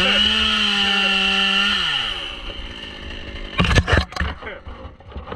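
Two-stroke chainsaw revving up, held at full throttle for about two seconds, then winding back down to idle. A few sharp knocks follow about a second and a half later.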